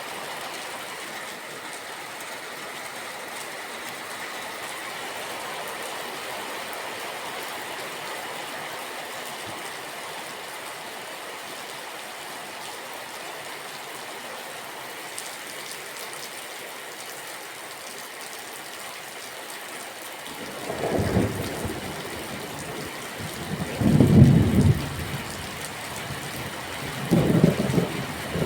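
Steady rain falling, then about two-thirds of the way in thunder sets in with three loud low rumbles a few seconds apart.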